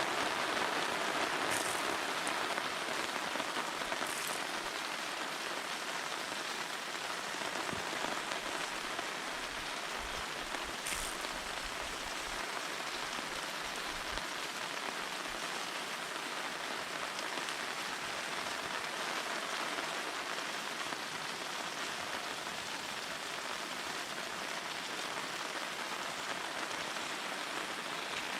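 Steady rain falling, an even hiss with a few sharper ticks of drops now and then.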